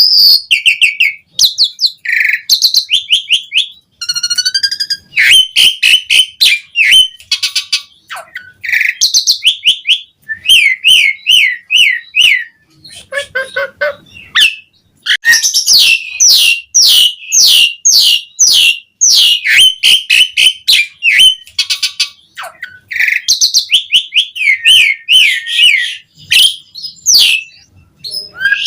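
Javan pied starling (jalak suren) in full song: rapid runs of chirps, whistles and harsh notes, mostly quick falling strokes, strung together with only short pauses. It is a varied, busy song with a brief lower-pitched phrase about halfway through.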